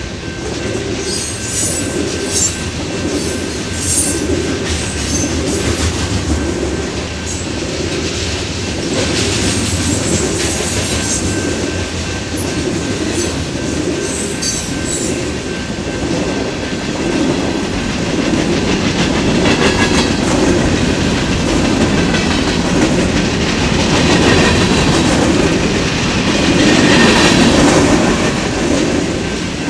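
Freight train rolling past close by, covered hopper and tank cars going over the rails with a steady rumble and rhythmic clickety-clack of steel wheels. Short high-pitched squeals come from the wheels now and then.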